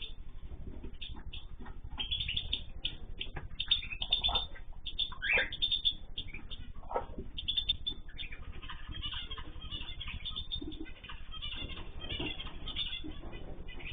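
Cage birds in an aviary chirping and calling continuously, with several louder, falling calls about four, five and seven seconds in.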